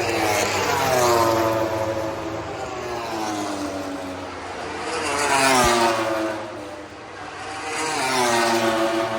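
High-revving motorcycles passing one after another, three times; each engine note rises in loudness and then falls in pitch as the bike goes by.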